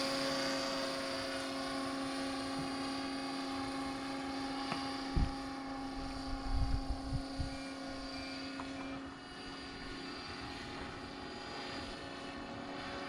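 Electric scale RC helicopter in forward flight: a steady rotor and motor whine that gets a little fainter about nine seconds in. A few short low thumps come in the middle.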